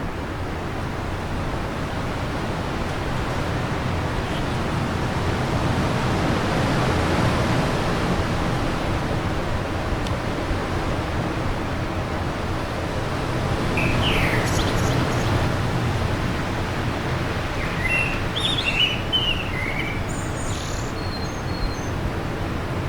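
Steady wind noise that swells and eases, with small birds chirping from about the middle on and a quick cluster of short chirps near the end.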